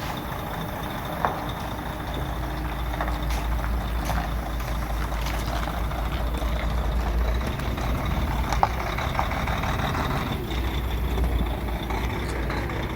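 DAF 105 truck's diesel engine running steadily as the truck drives away under its own power after the engine-knock repair, with a couple of short sharp clicks.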